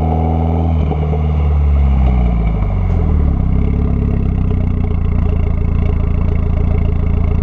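Mitsubishi Lancer Evolution X's turbocharged 2.0-litre four-cylinder through an AMS widemouth downpipe, cat and twin-tip catback exhaust: revs held up, released about a second in and falling back over a couple of seconds to a steady idle.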